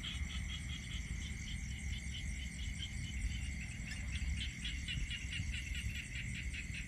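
Night insects, crickets, calling in a steady chorus: one continuous high trill with pulsing chirps at about four a second over it, and a low rumble underneath.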